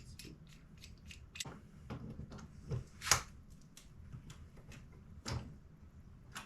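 Scattered metal clicks and clinks as a clamp is handled and tried around a stack of steel strips, the loudest knock a little after three seconds in.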